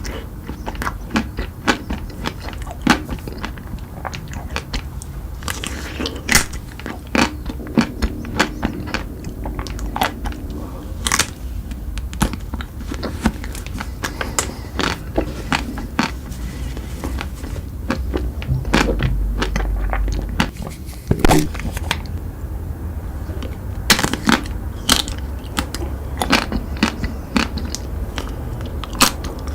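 Chocolate treats being bitten and chewed: irregular sharp cracks and crunches, over a low steady hum.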